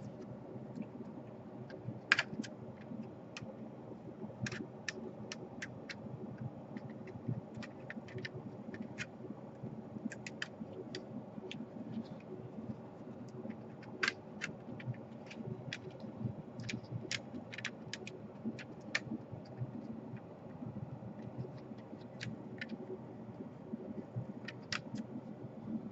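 Scattered small clicks and taps of laptop parts and cables being handled during reassembly, the sharpest about two seconds in, over a steady low hum.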